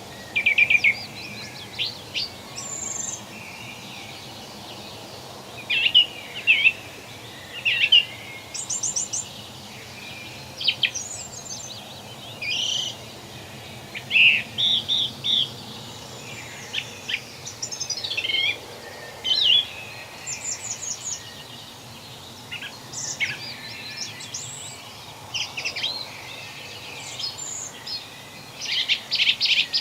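Several songbirds singing and chirping in a forest, short quick phrases one after another over a steady background hiss.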